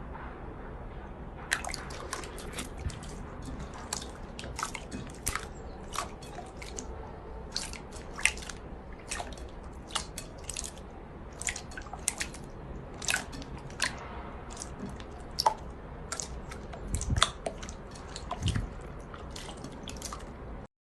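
Slime being squeezed and worked by hand, giving off many irregular sharp clicks and pops.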